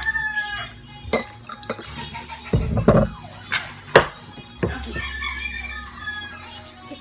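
A rooster crowing, one drawn-out call about five seconds in, with several sharp knocks and clicks before it.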